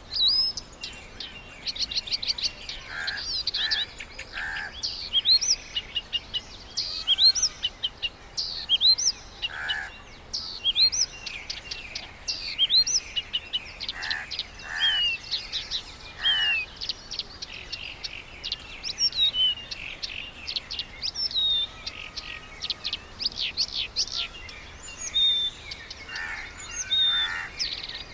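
Several birds calling: quick trilled chirps and short rising and falling whistled notes, with a harsher, lower call now and then.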